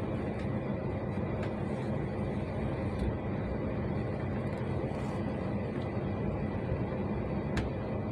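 Steady rumble of a passenger train running along the track, heard from on board, with a few sharp clicks over the rumble.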